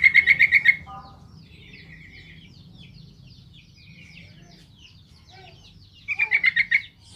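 Yellow-vented bulbul singing: two loud runs of rapid chattering notes, one at the start and one about six seconds in, with softer quick twittering between.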